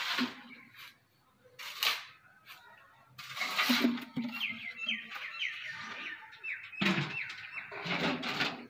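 A bird chirping a quick run of short, repeated high notes in the middle, among louder bursts of rustling noise.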